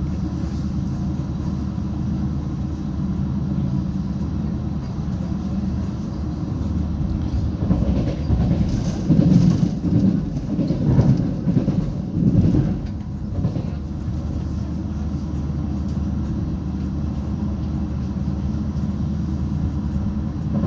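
Diesel engine of a 730ML diesel train running steadily with a low hum, heard from the carriage window. In the middle, for about five seconds, louder irregular knocking and rumbling rises over it, like wheels clattering over rail joints or points.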